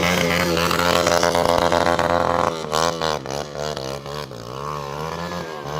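Motorcycle engines running, steady at first, then revving up and down from about two and a half seconds in.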